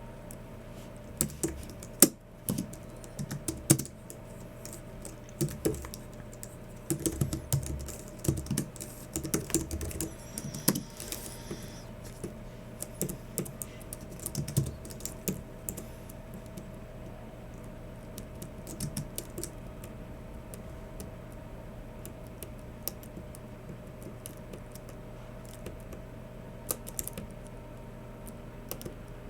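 Typing on a Logicool MX Keys Mini low-profile keyboard: irregular key taps coming in quick flurries through the first half, thinning to occasional taps later, over a steady low hum.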